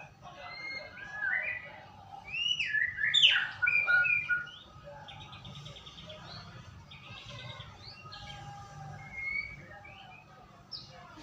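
White-rumped shama (murai batu) singing a lure song: a varied run of rich whistles and sweeping up-and-down glides, loudest in the first few seconds, with short buzzy rattling phrases in the middle.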